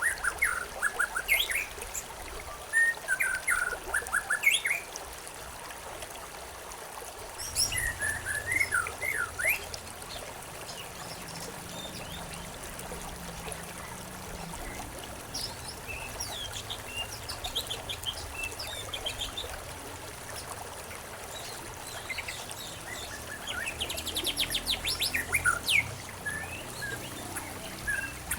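Several birds chirping and singing in short bursts of quick notes over a faint steady background hiss, busiest near the start, around eight to ten seconds in, and again near the end.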